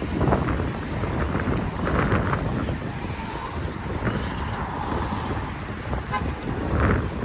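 Street traffic: vehicles passing with a steady noise of engines and tyres.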